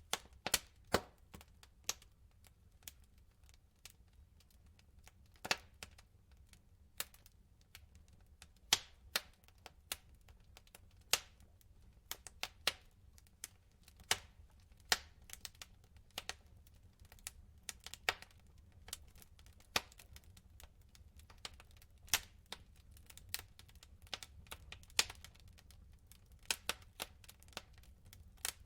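Wood fire burning in a fireplace, the logs crackling and popping with irregular sharp snaps over a faint low rumble.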